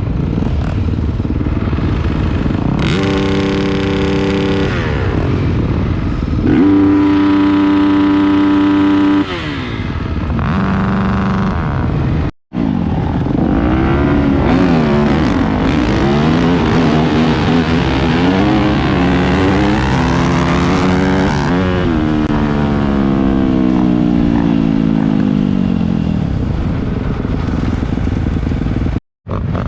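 Dirt bike engines revving hard, held at high revs for a few seconds at a time, then rising and falling in pitch as the throttle is worked. The sound cuts out completely twice, briefly.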